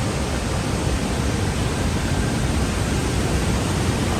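Steady rushing of the Merced River running high with snowmelt: an even, unbroken noise with a strong low end.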